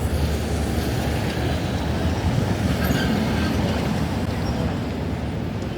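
A steady, heavy low rumble of a passing vehicle, swelling slightly in the middle.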